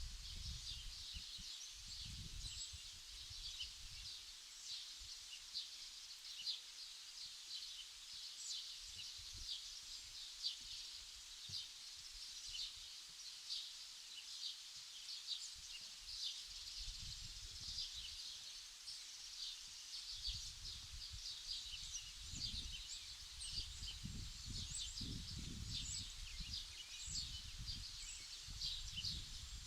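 Many birds chirping in quick, short high notes without pause, with a low rumble that comes and goes, strongest near the start and through the last third.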